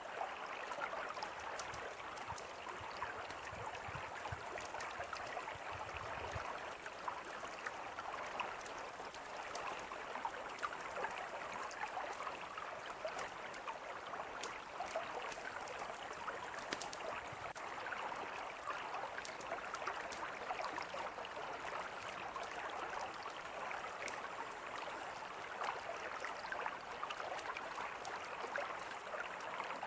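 A mountain river flowing steadily, with a campfire crackling over it in scattered sharp pops.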